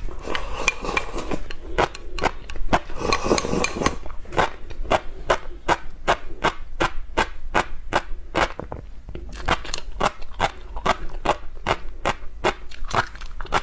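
Close-miked crunchy chewing, a sharp crunch about three times a second, with slurping from a bowl during the first four seconds.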